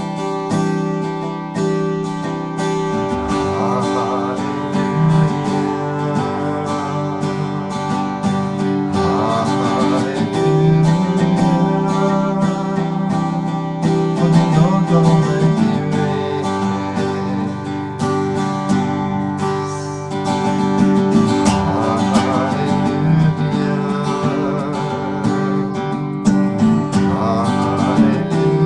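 Music: an acoustic guitar strummed steadily, with wavering held notes that swell every few seconds.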